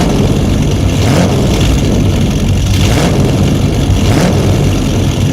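Truck engine running steadily, with a strong low hum.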